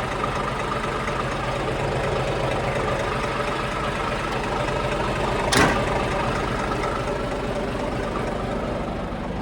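Scania truck's diesel engine idling steadily, with one short, sharp burst of sound a little over halfway through.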